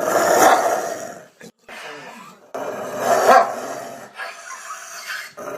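A dog barking in several rough outbursts with short breaks between them; the loudest comes about three seconds in.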